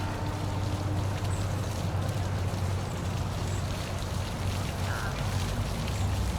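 Steady rushing and splashing of a park waterfall, with a steady low hum underneath and a few faint, short, high chirps.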